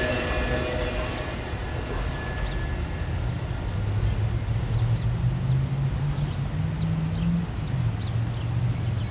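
A train that has just passed fades away, its rail sound dying out over the first three seconds. A low engine hum remains, with scattered short, high bird chirps.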